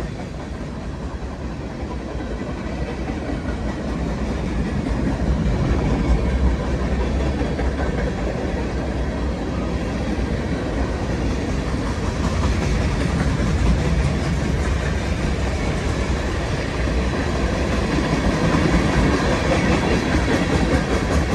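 Freight cars of a BNSF manifest freight train rolling past, a continuous rumble of steel wheels on the rails that grows louder a few seconds in.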